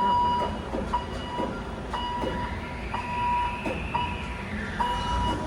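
Warning beeper on port container-handling machinery, sounding about once a second, over the running noise of the machine. Partway through, a whine rises and then falls away.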